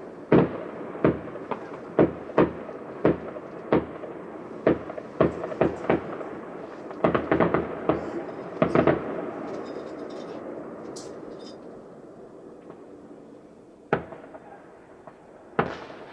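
Fireworks exploding: a rapid run of sharp bangs with a rumble of echoes between them for the first nine seconds or so, dying away, then two more bangs near the end.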